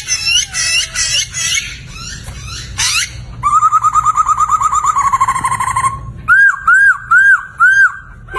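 Poksay (laughingthrush) singing a varied song: quick chattering notes for the first few seconds, then a fast trill of repeated notes from about three and a half seconds in, ending in four loud arched whistles.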